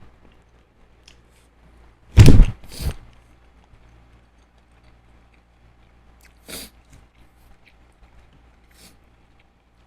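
Close-miked eating noises: a loud, sudden mouth sound about two seconds in, a smaller one just after it, and a fainter one later, with small clicks between.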